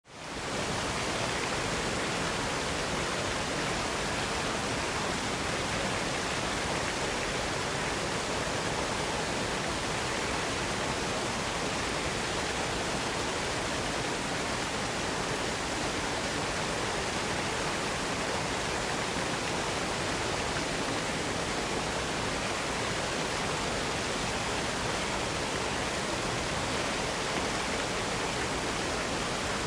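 A waterfall's steady rush of falling water, an even noise with no breaks, fading in over the first half second.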